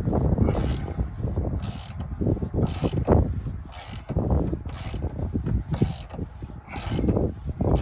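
Bead breaker being worked with a steady stroke about once a second, each stroke a sharp high metallic click over a low rumble, as it forces the bead of a large tractor tire off its rim.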